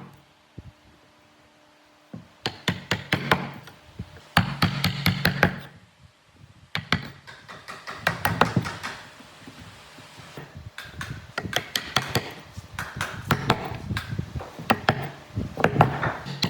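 Bursts of rapid knocks on wood, like hammering, with several sharp blows in each burst and short pauses between bursts.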